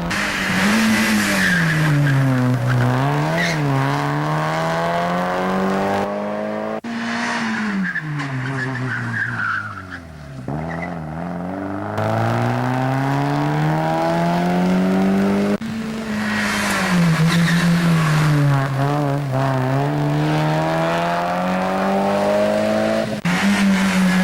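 Mazda MX-5 race cars' four-cylinder engines revving, the pitch climbing under acceleration and dropping off again, over and over through the corners. The sound changes abruptly several times from one car or shot to the next.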